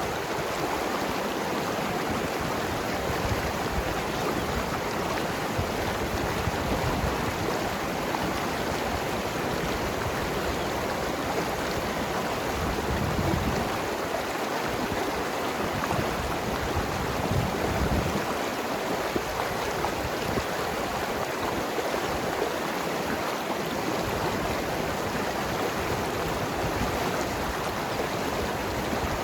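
Mountain river flowing and gurgling over rocks, a steady rush of water. A deeper rumble swells a few times in the middle.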